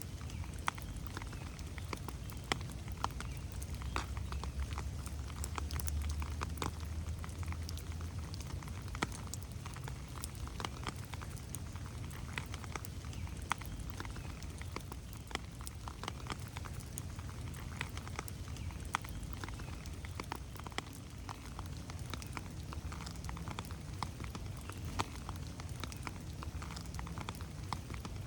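Steady rain in a forest, with many separate drops pattering and ticking close by on leaves and the ground. A low rumble swells and fades between about three and eight seconds in.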